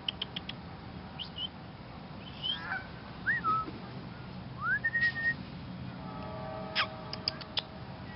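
Wild birds calling: scattered short chirps and whistles, including a rising whistle held briefly about five seconds in and a sharp falling note with quick ticks near the end, over a steady low rumble.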